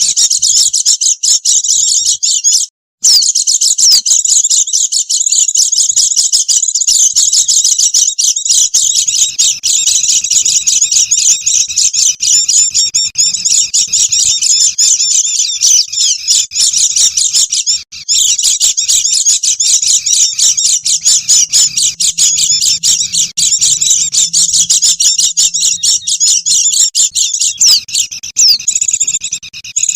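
A dense, continuous chatter of many white-eyes (pleci): rapid high-pitched chirps and trills overlapping without pause, a bird-lure recording. The sound cuts out briefly twice, about three seconds in and a little past halfway.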